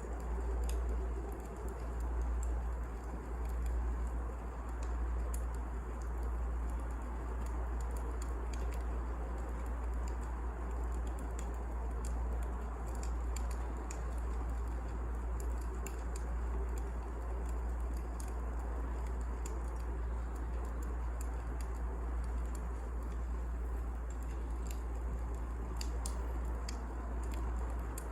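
Wood fire crackling steadily, with irregular sharp pops and snaps over a constant low rumble.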